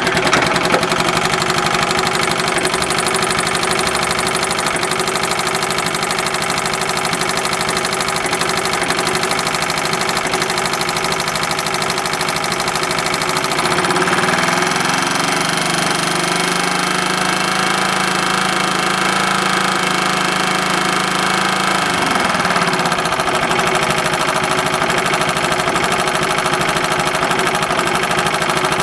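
A motor-driven machine running steadily with a fast, even mechanical rhythm. About halfway through, its lower tone shifts in pitch for several seconds, then settles again.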